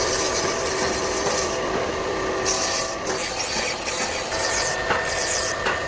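Factory machinery running steadily, with a high hiss that starts and stops in several stretches of half a second to a second and a half.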